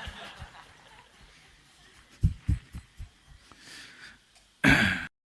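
Audience laughter dying away, then a few soft low thumps around two to three seconds in and a brief voice sound just before the audio cuts to dead silence.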